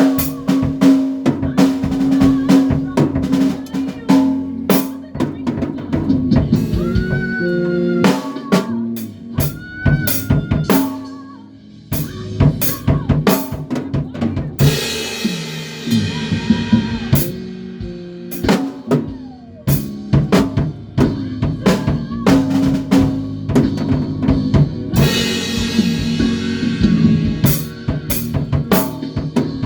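A band playing live in rehearsal: a drum kit keeps a busy beat under bass and other pitched instruments. Cymbal crashes wash over the top about halfway through and again near 25 s, and the music briefly thins out around 11 s.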